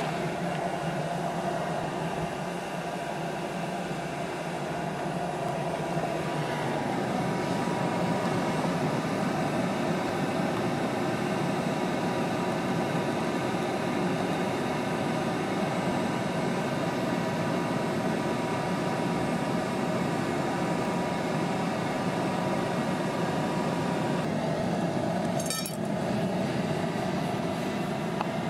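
Furnace blower running steadily, forcing air into a backyard aluminium-melting furnace: an even rushing roar with a steady motor whine over it. A brief clink or crackle comes about 25 seconds in.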